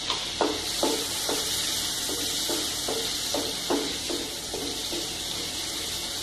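Green chillies and whole spices sizzling in melted butter in a metal kadhai, with a steady hiss. A wooden spatula stirs them, scraping and knocking the pan about twice a second.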